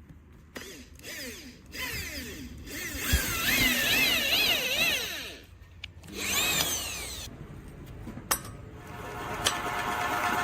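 Electric power tool motor whining, its pitch rising and falling over and over as it speeds up and slows under the trigger or under load, in two spells with a pause between. A couple of sharp clicks follow, then a steadier machine hum builds near the end.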